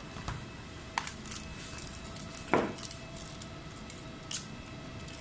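Small clicks and taps of tools and laptop parts being handled on a repair bench: one tap about a second in, a sharper ringing click about halfway, and another near the end, with light ticks between. A faint steady high tone sits underneath.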